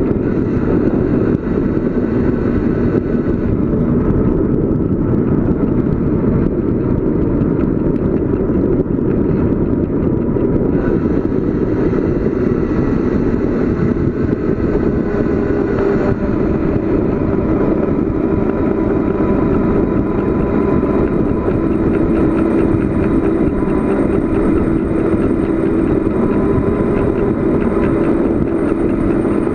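Steady rush of wind and road noise from a bicycle descending at speed, mostly low and rumbling, with a faint steady hum.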